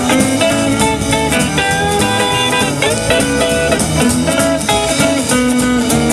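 Live rockabilly band playing an instrumental passage without vocals, with guitar to the fore over drums.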